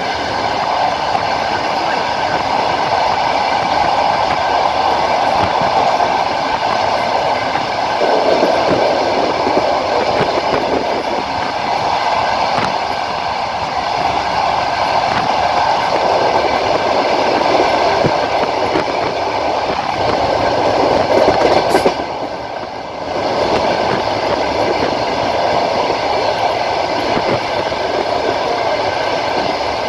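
Passenger train running along the line, its wheels clattering over the rails under a steady hum. About twenty-two seconds in the sound briefly drops and then picks up again.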